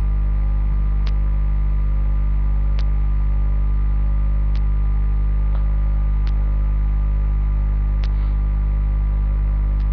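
Steady electrical mains hum, a low drone with a stack of overtones, with faint single clicks at an even pace of about one every second and three-quarters.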